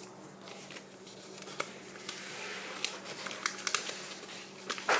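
A sheet of paper being folded and creased by hand: soft rustling with scattered sharp crinkles and taps. A faint steady hum runs underneath.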